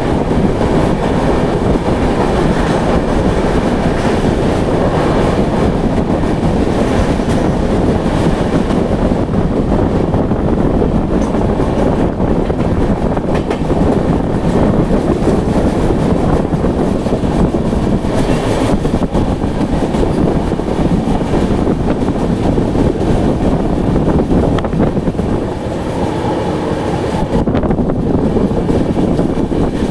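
Passenger train running on the track, a steady loud rumble and rattle of the moving coaches.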